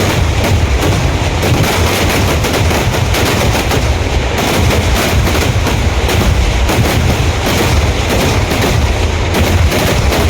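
A dense barrage of firecrackers exploding, many bangs a second without a break, as in the volley of a Kerala temple-festival fireworks display.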